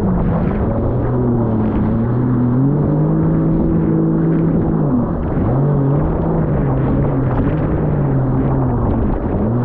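Jet ski engine running under way, its pitch rising and falling with the throttle and dropping briefly about five seconds in and again near the end, over a steady rush of water and wind.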